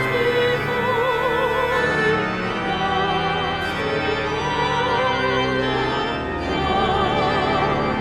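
A solo voice singing with strong vibrato, accompanied by organ.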